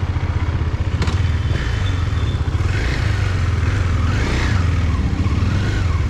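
Motorcycle engine running steadily under way, with a dense, fast low pulsing throughout.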